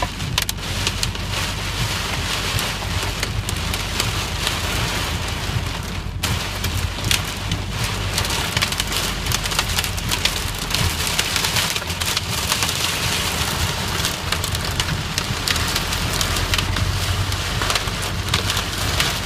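Heavy rain pouring down, a steady dense hiss with many sharp drop impacts, breaking off for an instant about six seconds in.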